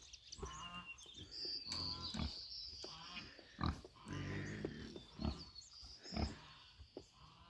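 Pig grunting: a series of short, low grunts, roughly one a second, with thin high chirps over them.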